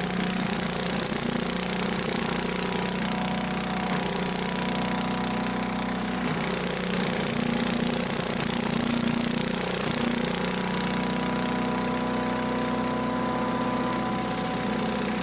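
Earthquake 212 chipper shredder's small gas engine running steadily at full speed while it shreds dry leaves, with a constant rushing noise from the hopper and chute.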